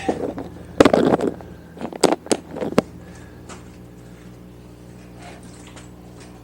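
The recording camera being picked up and moved back: a loud rustle about a second in and three sharp knocks, then a steady low hum for the rest.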